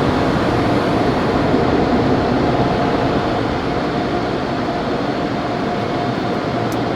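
Automatic car wash tunnel's hot-air dryer blowers running: a steady, loud rush of air with a faint steady tone under it.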